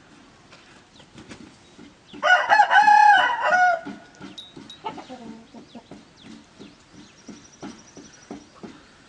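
A rooster crowing once, loud, about two seconds in, with chickens clucking in short repeated calls before and after.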